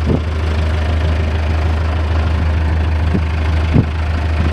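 Farm tractor engine idling with a steady low drone, with a couple of sharp knocks near the end.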